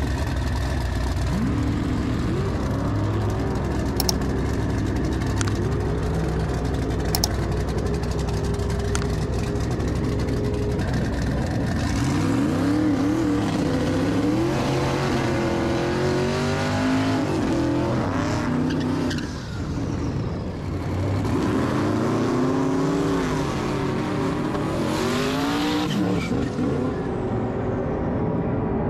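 Muscle car engines running, with a steady low idle at first, then several engines revving and cars passing, their pitch rising and falling over and over. Two sharp clicks come early on.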